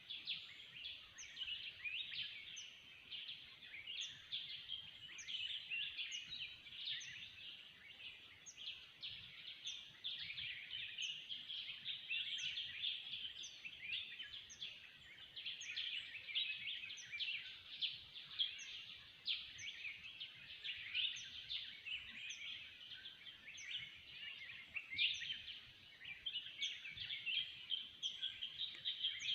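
A dense chorus of many forest birds calling and chirping at once, with a short, high falling note repeated at a steady rhythm above it.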